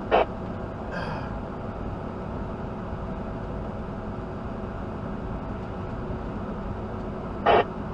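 Steady drone of a truck driving at speed, heard from inside the cab: engine and road noise. Two short, loud sounds break in, one just at the start and one near the end.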